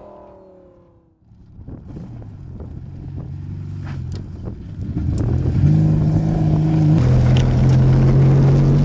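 Porsche 953 rally car's air-cooled flat-six engine, rising out of near quiet about a second in with scattered clicks and growing steadily louder. From about halfway it holds a loud, steady running note, which shifts abruptly at about seven seconds.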